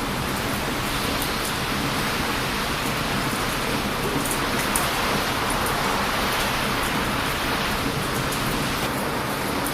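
Heavy surf washing on a beach in a steady roar that swells a little through the middle, with a wood fire crackling in small, sharp pops over it.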